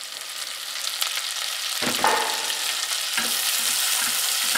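Chopped spring onion sizzling in butter in an aluminium pot, the sizzle growing louder over the first couple of seconds, with a few knocks as it is stirred with a wooden spoon.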